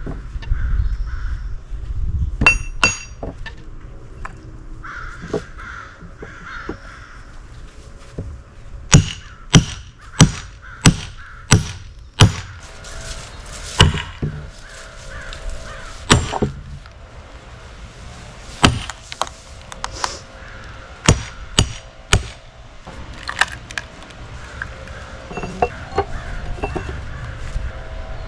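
Sledgehammer blows on a steel splitting wedge driven into an oak round, each a sharp ringing strike: a quick run of about seven strikes between about nine and twelve seconds in, then slower, spaced blows.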